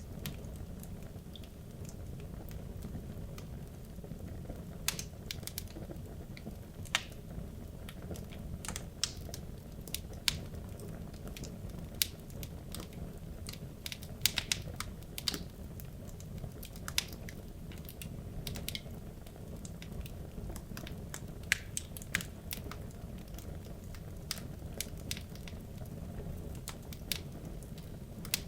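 Wood logs burning in a fireplace: a steady low rumble of the flames with irregular sharp crackles and pops from the wood, several a second at the busiest.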